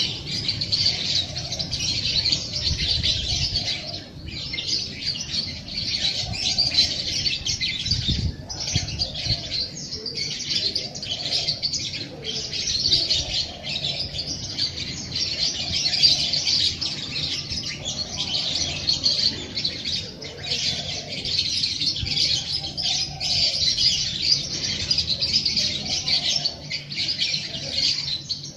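A dense chorus of many small songbirds chirping and twittering without pause.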